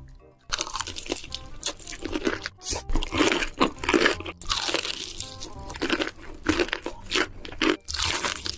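Loud, close-up crunching of someone chewing crisp food, a rapid irregular run of crunches that starts about half a second in.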